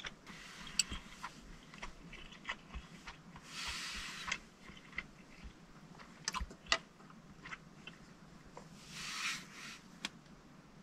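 Someone chewing and eating soft rolled omelette (dashimaki tamago) with wooden chopsticks, with small scattered clicks. There are two sharper clicks about six and a half seconds in as the chopsticks are set down on their rest.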